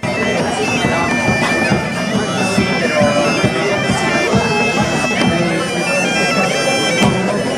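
Bagpipe music: a reedy melody over steady held drone notes, starting suddenly and breaking off near the end.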